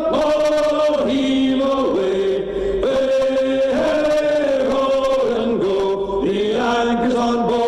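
A group of male voices singing a sea shanty in chorus, drawing out long, held notes that slide between pitches.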